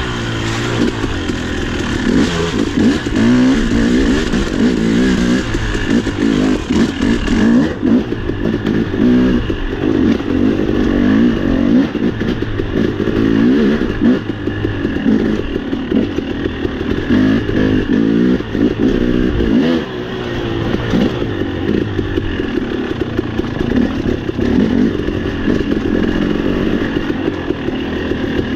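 Dirt bike engine being ridden along a trail, its revs rising and falling continually as the rider works the throttle.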